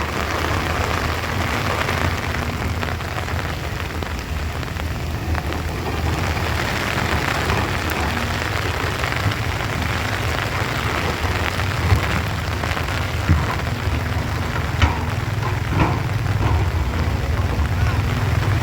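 Heavy rain falling steadily, with a low steady rumble underneath and a few sharp knocks in the second half.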